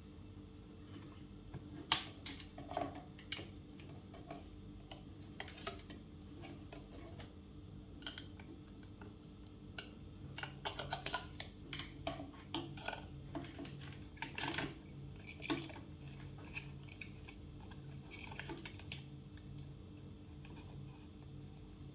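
Irregular plastic clicks and clatter from hands working on an IBM Model M keyboard and its parts, busiest around the middle, over a steady low hum.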